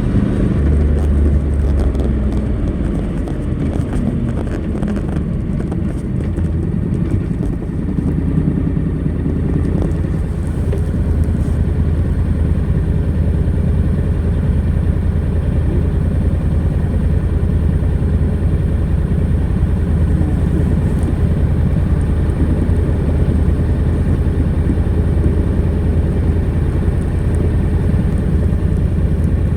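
Honda NC700X's parallel-twin engine running through its stock exhaust. Its pitch shifts during the first ten seconds or so, then holds steady.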